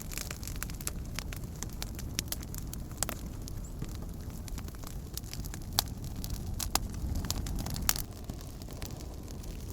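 Wood campfire crackling: many small sharp snaps and a few louder pops, over a steady low rumble.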